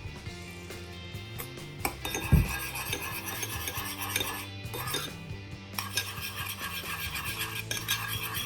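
A spoon stirring and clinking against a bowl as the chili sauce is mixed, with rapid scraping ticks in the later part. There is one loud thump about two and a half seconds in.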